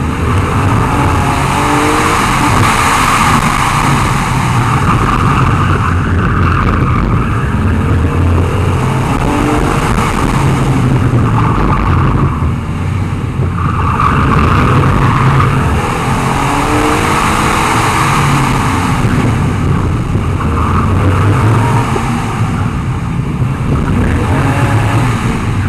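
BMW E30's engine revving up and down repeatedly as the car is driven hard, with tyre and road rumble and wind on the bonnet-mounted microphone.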